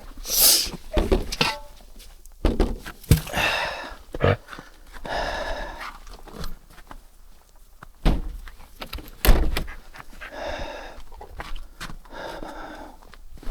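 A man breathing hard, with long panting breaths every couple of seconds, among scattered knocks and thuds, the sharpest about 3 and 9 seconds in.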